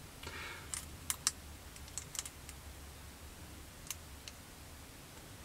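Small plastic model-kit parts clicking and tapping as they are handled and fitted together, a few light scattered clicks.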